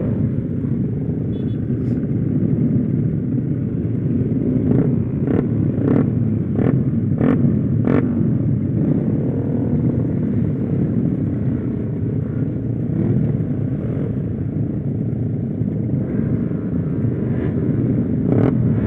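Motorcycle engine running while being ridden on the road, a steady dense rumble. A quick run of sharp clicks comes about five to eight seconds in.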